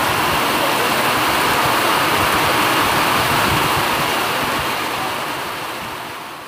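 Heavy rain pouring down steadily, splashing on a flooded road, as a constant loud hiss that fades out near the end.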